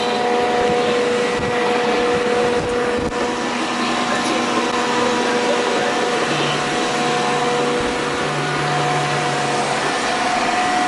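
Several robot vacuum cleaners running at once: a steady whir of motors and brushes with several constant whining tones. A lower hum joins about six seconds in and stops shortly before the end.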